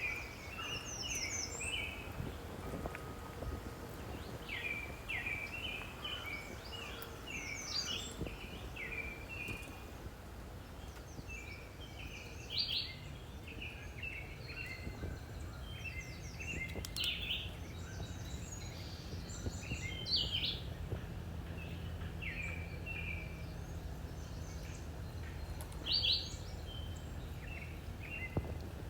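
Small songbirds chirping over and over in short, quick notes, over a steady low rumble; a low hum joins about halfway through.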